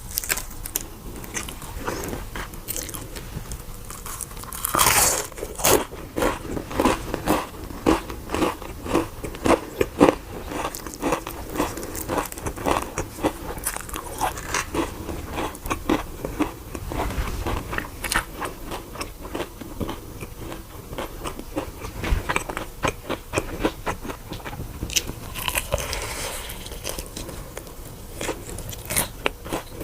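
A person biting into and chewing crunchy food, a close, steady run of crisp crunches with the densest crunching a few seconds in.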